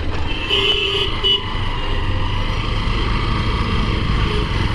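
Town street traffic: a vehicle horn honks twice in quick succession about half a second to a second and a half in, over a steady low rumble of engine and road noise.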